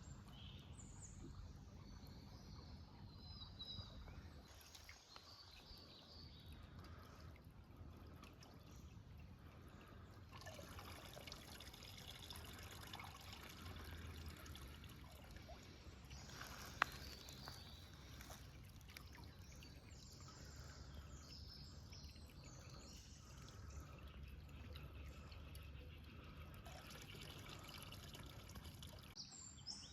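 Faint trickling water with birds chirping now and then, and a single sharp click about halfway through.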